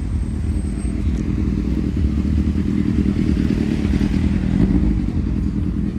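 Car engine running close by, a dense low exhaust note that gets somewhat louder around the middle.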